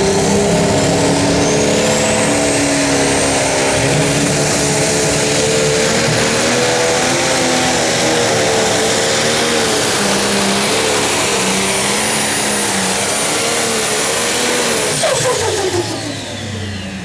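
Pro Stock pulling tractor's turbocharged diesel engine running at full power under heavy load, with a high turbo whistle over the engine. Near the end the throttle comes off and the engine and turbo wind down in a falling whine.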